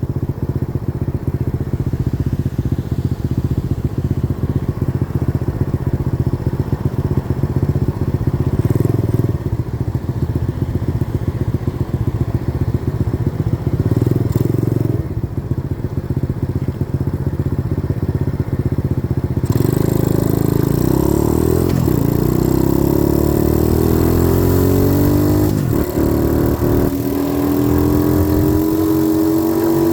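90cc dirt bike engine running under way, steady for most of the time, then climbing steadily in pitch over the last third as the bike accelerates.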